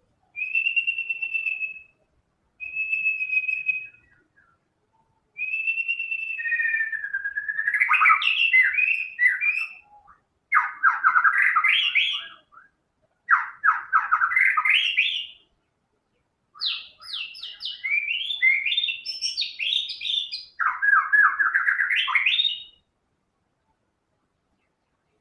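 White-rumped shama singing in loud bursts. It opens with two clear, steady whistled notes, then moves on to longer phrases of rapid trills and quick sweeping notes, with short pauses between phrases.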